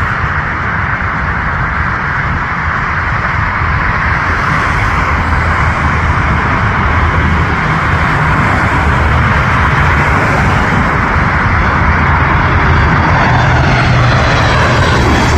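Jet airliner engines running with a steady rush and rumble that slowly grows louder, with a falling pitch coming in near the end as the aircraft passes.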